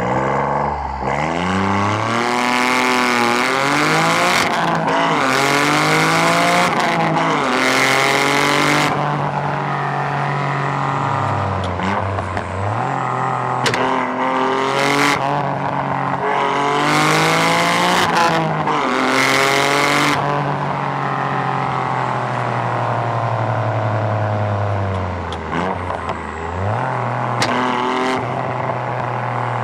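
Turbocharged 1.6-litre three-cylinder engine of a tuned Toyota GR Yaris accelerating hard. The revs climb and fall with each gear change, several times over. A loud hiss rides over the full-throttle stretches, and a few sharp exhaust pops come near the end.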